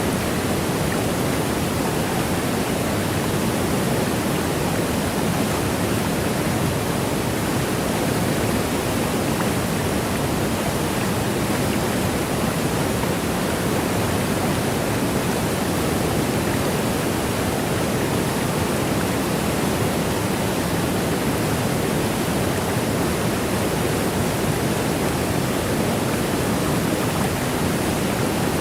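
Waterfall: a steady, unbroken rush of falling water, a dense even hiss weighted toward the low and middle range, with no change in level.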